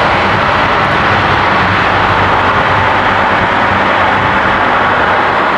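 Steady running noise of a moving intercity passenger train, heard at the rear of its last carriage: wheels rolling on the rails and the rush of air, with no breaks.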